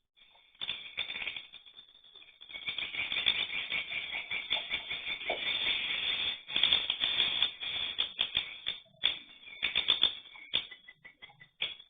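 Swiftlets chattering: a dense, rapid rattling twitter that starts about half a second in, swells about two and a half seconds in, and breaks into short fitful bursts near the end.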